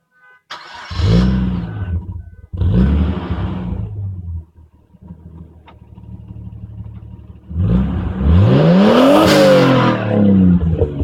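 Car engine starting about half a second in and blipped twice, then idling, then revved hard for about two seconds with the pitch climbing and falling back, and blipped again near the end. It runs with its exhaust leak repaired.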